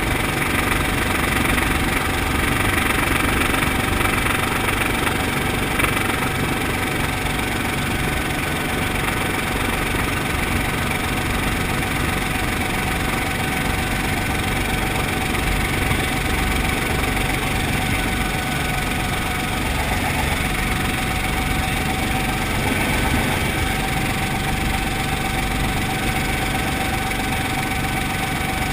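Brantly B2B helicopter's piston engine and rotor running steadily, a constant loud drone with a low pulsing beat underneath.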